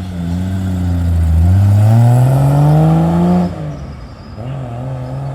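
A car accelerating away under hard throttle: the engine note rises steadily for about three seconds, drops sharply, then rises again more quietly.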